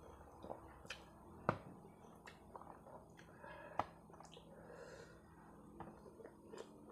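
Faint close-up eating sounds: scattered wet mouth clicks and smacks while chewing noodles and boiled sweet potato leaves, with two sharper clicks about a second and a half and about four seconds in.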